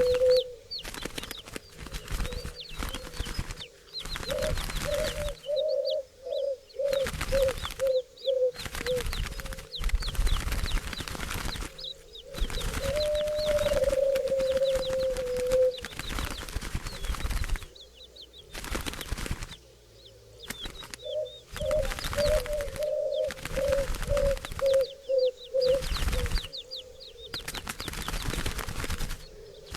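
Turtle doves cooing in repeated purring phrases, each a run of quick low pulses lasting a few seconds. Between them come bursts of wing flapping and faint higher chirps.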